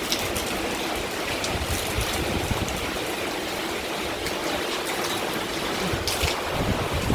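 Rain pouring down in a windstorm, a steady rushing noise of falling and running water with a few brief spatters.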